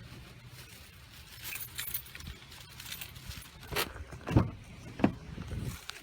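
Rustling and handling noises with scattered clicks as someone moves about getting into a car, with two loud thumps about four and five seconds in.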